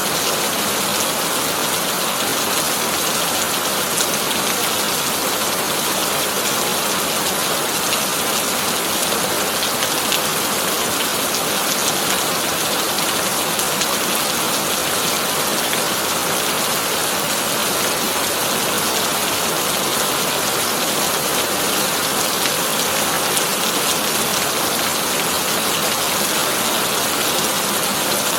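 Heavy rain falling steadily on a corrugated tin roof: an even hiss with faint, scattered ticks of single drops.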